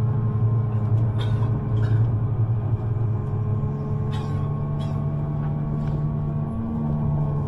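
Underground electric train running: a steady low rumble with thin motor whine tones above it and a few sharp clicks from the track.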